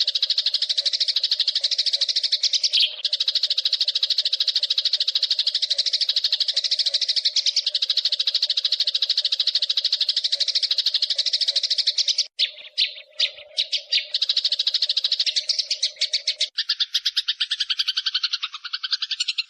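Eurasian tree sparrows chirping in a rapid, unbroken rattling run, typical of agitated, fighting sparrows. The run stutters briefly about twelve seconds in, and near the end it changes to a lower, differently pitched chirping.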